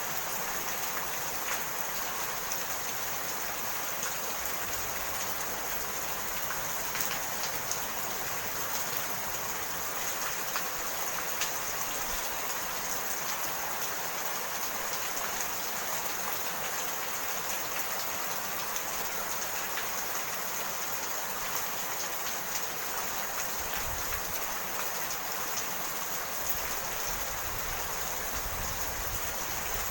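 Steady rainfall, an even hiss with scattered sharper drop ticks.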